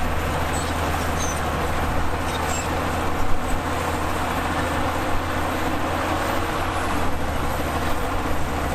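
Heavy diesel earthmoving machinery running steadily under load, with a deep engine drone. One brief knock about three and a half seconds in.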